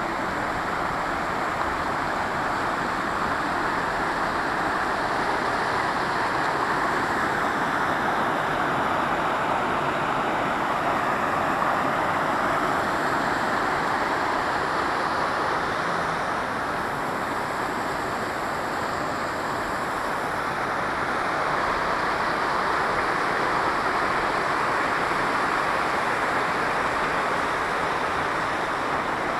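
Waterfall water pouring and splashing in a steady, loud rush that never pauses.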